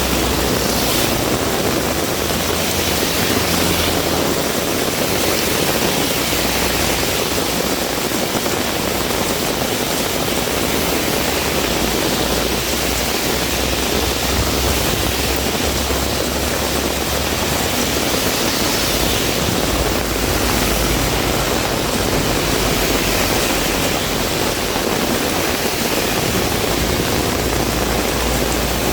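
Heavy rain falling steadily in a windstorm, a dense even hiss with an uneven low rumble underneath.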